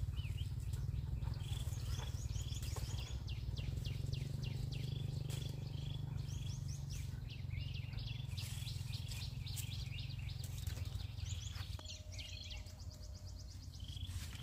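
Small birds chirping in quick series of short, high calls, over a steady low rumble.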